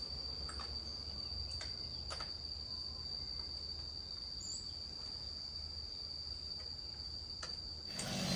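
An insect calling with one steady, high-pitched trill over a low hum, with a few faint ticks. Near the end, a louder machine-like noise begins to rise.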